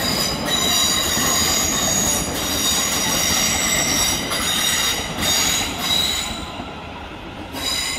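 London Midland Class 350 Desiro electric multiple unit departing over the pointwork, its wheels squealing in several steady high tones over the rumble of the train, with a few clicks over the joints. It fades after about six seconds as the train draws away.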